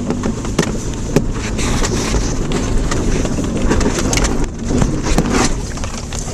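Subaru Outback driving over a rough, rocky dirt road, heard from inside the cabin: a steady rumble of tyres and engine with frequent sharp knocks and rattles from the car jolting over the bumps.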